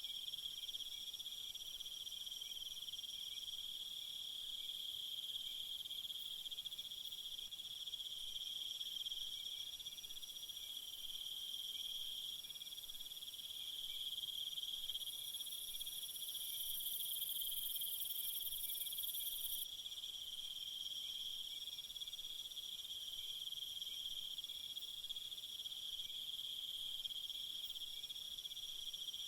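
Crickets chirring in a steady, unbroken chorus. A higher, hissing insect layer swells about fifteen seconds in and cuts off suddenly about five seconds later.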